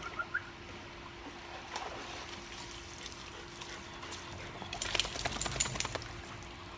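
Water splashing and trickling, with a burst of splashes about five seconds in.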